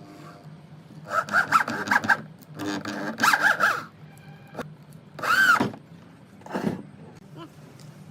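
Power drill run in three short bursts and a brief fourth, its whine rising and falling as the trigger is squeezed and eased, with a low steady hum underneath.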